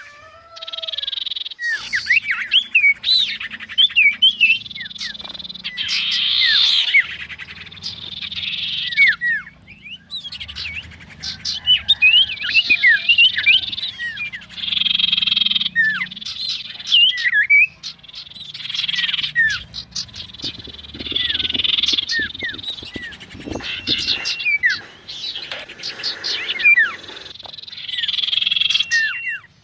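Small songbirds chirping and twittering in a dense chorus of quick rising and falling notes, coming in bursts a few seconds long with brief pauses, over a faint low hum.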